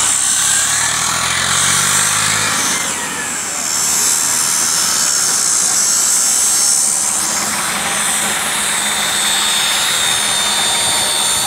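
Ford 3610 tractor's engine running hard under load as it strains to pull a sand-loaded trolley stuck in mud, rising in pitch over the first couple of seconds as it revs, with a steady hiss over it throughout.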